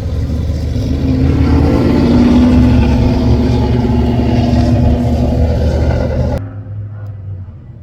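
A classic car's engine rumbling loudly as it drives past, loudest about two to three seconds in. The sound cuts off suddenly near the end, leaving a fainter low engine rumble.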